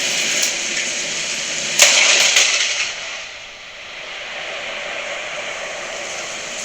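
Storm wind blowing hard as a steady rushing noise, with a louder burst or gust about two seconds in that dies away after about a second into a quieter, even rush.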